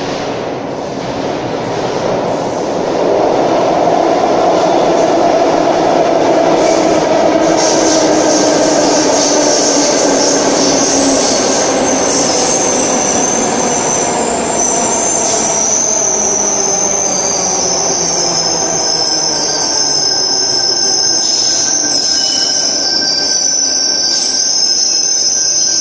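Sydney Trains Tangara double-deck electric train arriving at an underground platform: loud wheel-and-rail noise building over the first few seconds, a whine that falls in pitch as the train slows, and a high wheel squeal from about eight seconds in that holds to the end.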